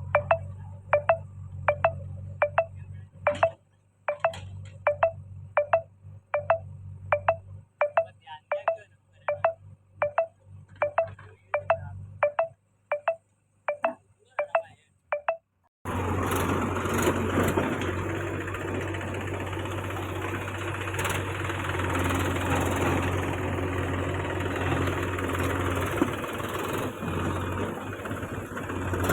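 A run of short, evenly spaced pitched pings, about one and a half a second, over a low hum. Then, about halfway through, a tractor's diesel engine starts running steadily.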